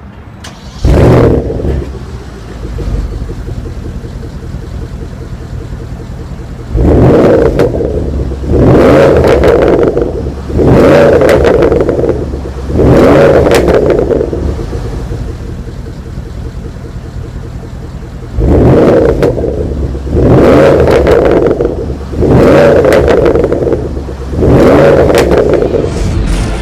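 2015 Porsche Panamera Turbo's 4.8-litre twin-turbo V8 starting with a loud flare about a second in, then settling to idle. It is revved in two sets of four short blips about two seconds apart, idling between the sets.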